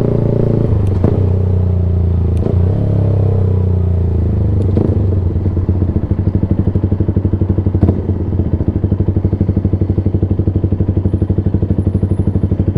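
Yamaha sport bike engine running loud through a slip-on Black Widow can with no baffle. About halfway through it settles into an even, pulsing beat, and a few sharp knocks sound over it.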